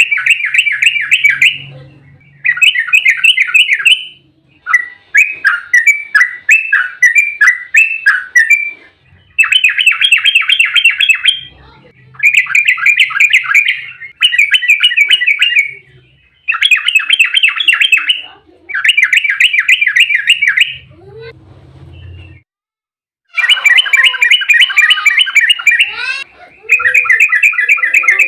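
Yellow-vented bulbul (trucukan) singing loud, fast chattering phrases of rapid bubbly notes, one burst after another with short gaps, pausing briefly a little after three-quarters of the way through.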